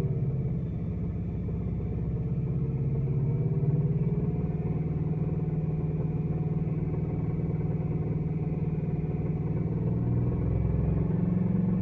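Car engine running steadily, with a noise that the owner suspects may be rod bearing noise after new VAC rod bearings were installed.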